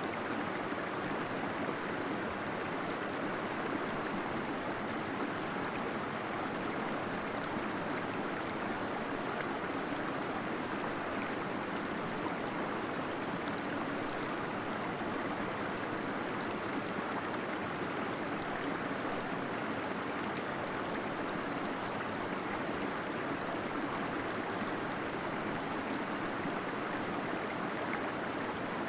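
Small waterfall splashing steadily inside a cave, a constant even rush of falling water.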